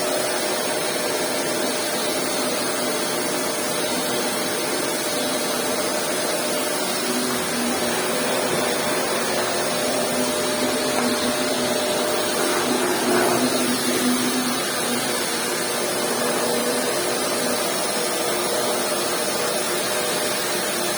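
Household vacuum cleaner running steadily, its motor hum over the rush of air. About thirteen seconds in, the pitch wavers briefly and it gets a little louder.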